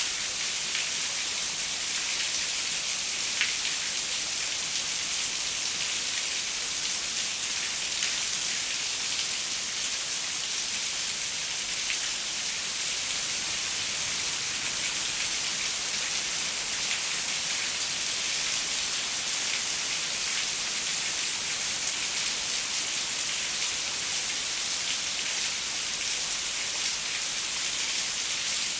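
Steady rain falling on a window pane: an even, mostly high-pitched hiss with faint drop ticks scattered through it.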